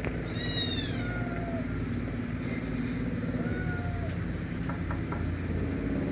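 Young kitten mewing: one clear high-pitched mew that falls in pitch about half a second in, followed by fainter short mews, over a steady low hum.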